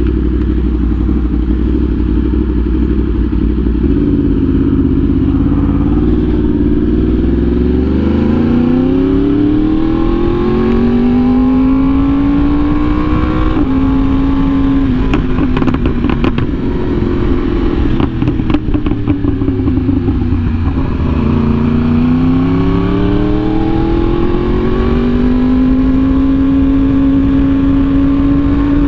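Yamaha R1M crossplane inline-four through an SC Project exhaust, revving up and down as the bike is ridden: the engine note climbs in long rises, steps and falls back several times. A burst of sharp crackles comes midway.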